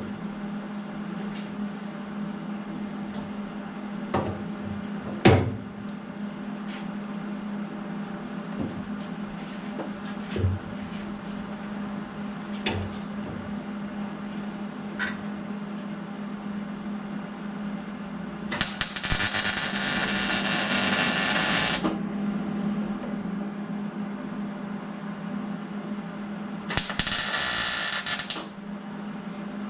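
Scattered knocks and clicks of steel parts being handled over a steady low hum, then two loud bursts from a power tool working the steel, the first about three seconds long and the second about a second and a half.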